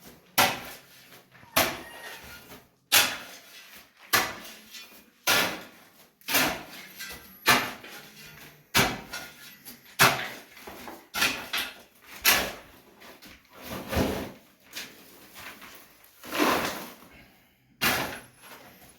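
Repeated swishing strokes, roughly one a second, each starting sharply and fading over about half a second: paint being worked onto a wall through a stencil.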